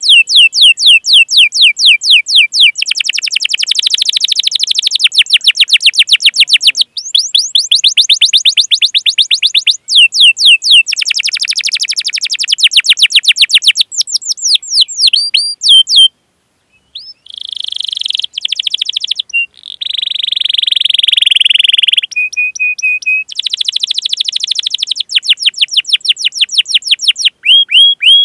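Domestic canary singing long phrases of rapid, repeated sweeping chirps and rolling trills. The song breaks off briefly past the middle, goes into a buzzy trill, then a short steady whistle, before the rapid chirping resumes.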